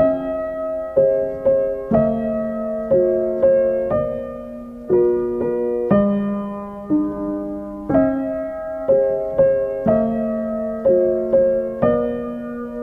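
Background piano music: slow, evenly paced notes, each struck and left to ring and fade.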